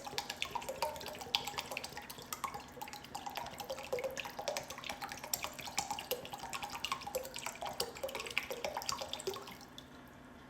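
Water dripping and trickling in many irregular drops as a soaked terracotta chia pet is drained, stopping suddenly near the end.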